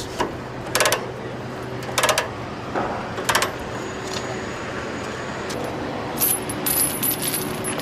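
Metal load chains clanking in several short rattles as a chain tightener cinches them down, with jingling metal near the end. A truck engine idles steadily underneath.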